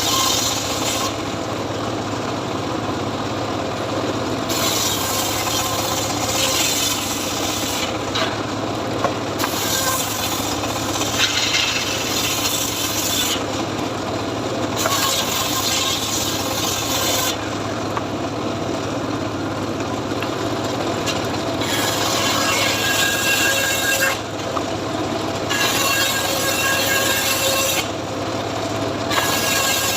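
Homemade srekel sawing machine cutting teak: a steady machine hum runs throughout, overlaid by loud rasping saw-cut noise in stretches of a few seconds with short breaks between them.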